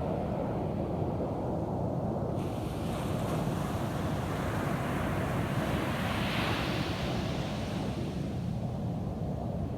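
Ocean surf: a steady low rumble of waves, with a wave washing in whose hiss builds from about two seconds in, is strongest past the middle, then fades.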